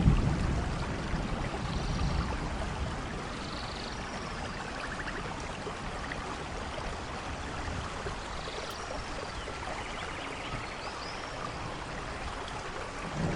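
Steady rainfall, with a low rumble fading over the first two seconds. Faint short high chirps come through now and then.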